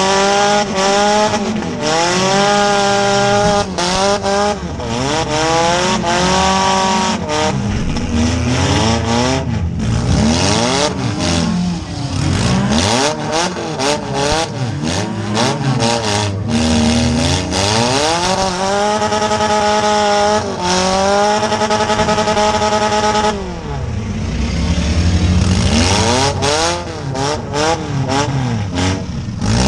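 Four-cylinder demolition derby car's engine, exhaust pipe standing up through the hood, revving up hard and falling back again and again as the car drives in the arena, heard from inside the stripped cabin. Many sharp knocks and bangs of the car's body cut through the engine noise.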